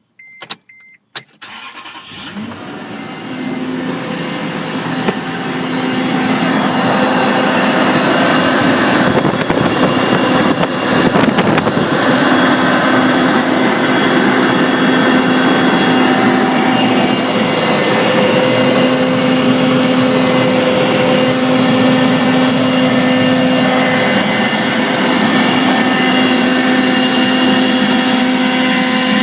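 A 2005 Toyota Tundra's 4.7 L V8 started cold, after a few short electronic beeps, with the secondary air injection pump running on top of the idle as a loud, steady whirring blower noise that builds over the first several seconds and then holds steady. This cold-start blower noise is the symptom of a noisy secondary air injection pump.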